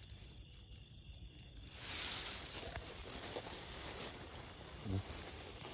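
Insects chirping in a steady high trill. About two seconds in, a rustling noise starts and runs on, and there is a single soft knock near the end.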